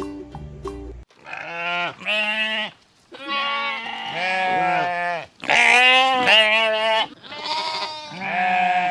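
Sheep bleating: about five long, wavering bleats in a row, starting about a second in.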